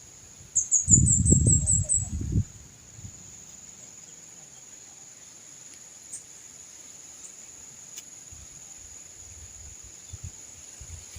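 Steady high drone of forest insects throughout, with a quick run of about eight high bird chirps near the start. At the same time a low rumble of wind gusting on the microphone lasts just under two seconds and is the loudest sound.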